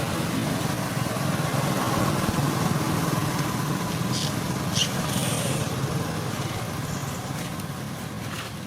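A motor vehicle's engine running steadily, swelling over the first few seconds and then slowly fading, with two short high chirps about four to five seconds in.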